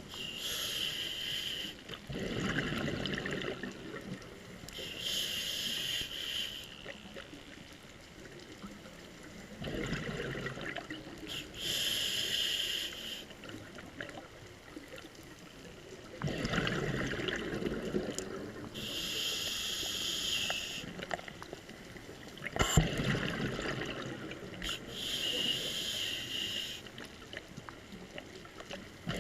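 Scuba diver breathing through a regulator underwater: a hissing inhale, then a burst of bubbling exhaust bubbles, repeating about every six seconds for about five breaths.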